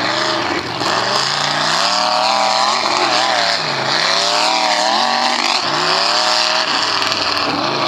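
Off-road truck engine revving hard, its pitch climbing and dropping several times as the throttle is worked.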